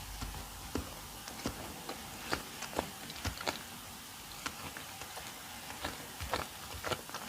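Close-miked mouth sounds of chewing a custard-filled doughnut: irregular clicks from the mouth and lips.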